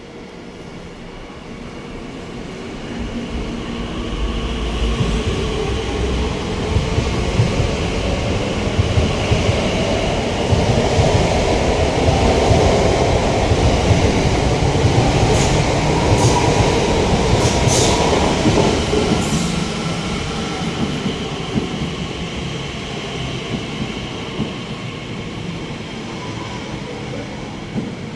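A train passing on the line: its rumble builds over a few seconds, is loudest around the middle with a few brief high squeals, then slowly fades away.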